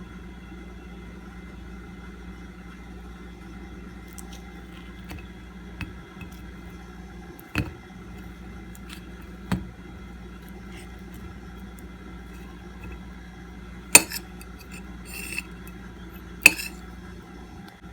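A few sharp clinks of tableware being handled, spaced several seconds apart and loudest near the end, over a steady low hum.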